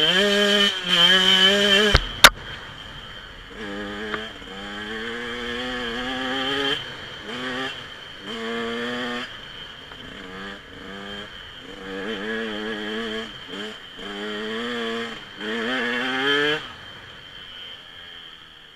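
Dirt bike engine revved in a series of short throttle blips, its pitch wavering up and down between blips, with a sharp click about two seconds in.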